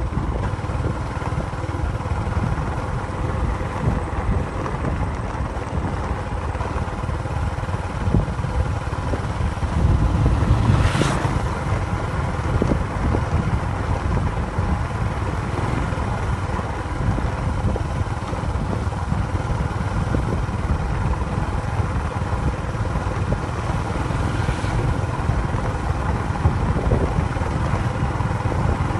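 A vehicle engine running steadily, with wind buffeting the microphone; the rumble swells briefly about ten seconds in.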